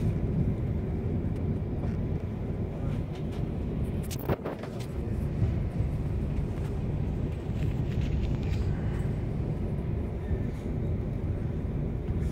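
Steady low rumble of a TER regional train running, heard from inside the carriage, with a few faint clicks and a brief sharp noise about four seconds in.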